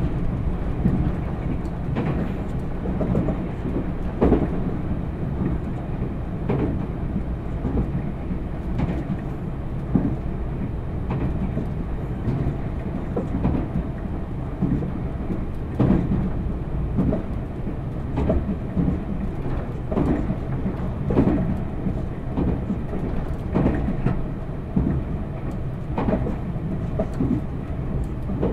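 Meitetsu 1000 series electric train running at steady speed, heard from inside the passenger car: a continuous low rumble with a steady motor and gear hum, and wheel clicks over the rail joints every two seconds or so.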